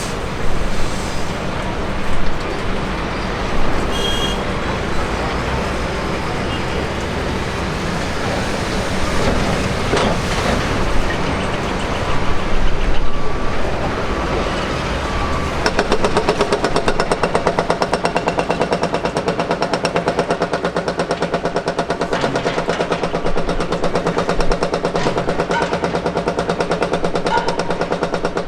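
Engine noise during a cargo jet's pushback on the apron: a steady rumble, joined about halfway through by a fast, even throbbing.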